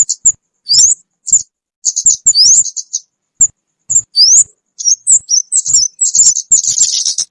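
Recorded chirping calls of the small bird called kemade, played as a trapping lure: short high chirps and quick upward-sweeping whistles in irregular bursts, running into a fast continuous chatter near the end.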